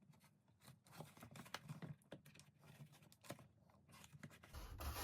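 Faint light clicks and scratches of small wooden model-kit parts being handled and pressed together by hand. Near the end a steady low hum and hiss come in.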